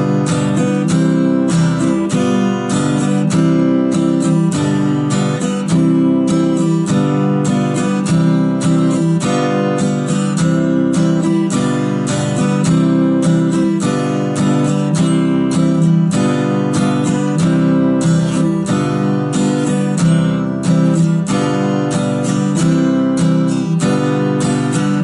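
Acoustic guitar strummed in a steady rhythmic pattern, changing back and forth between G7 and C chords.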